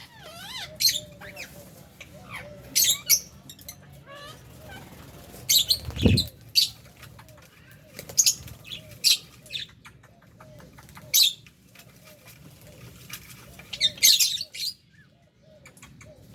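Aviary lovebirds and budgies giving short, sharp, high-pitched chirps and squawks at irregular intervals, with a cluster of calls near the end. A single low thump comes about six seconds in, over a faint steady low hum.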